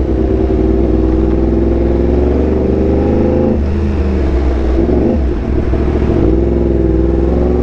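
Yamaha R1M's crossplane inline-four through an SC Project exhaust, running loud under throttle while riding. About three and a half seconds in the note falls away as the throttle closes, then it picks up again near the end.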